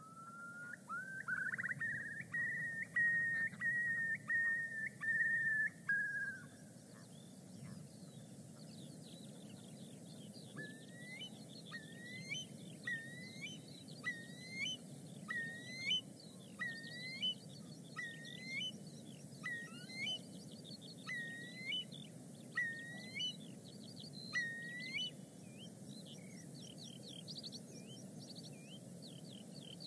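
Birdsong: a long whistle that rises and is then held for about six seconds, and after a pause a run of short upslurred whistles, about one a second, over faint high twittering and a steady low background hiss.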